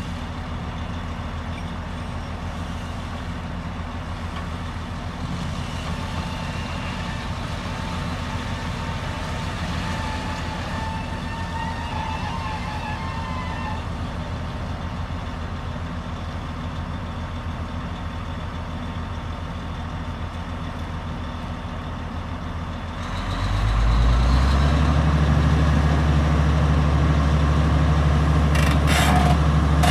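Heavy diesel engine running steadily, then revving up about three-quarters of the way through and holding at the higher, louder speed. A few sharp knocks come near the end.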